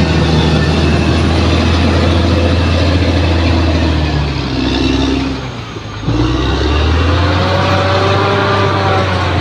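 Bulldozer's diesel engine working steadily. About five seconds in it eases off and drops in level, then picks up again abruptly and climbs in pitch as it revs back up.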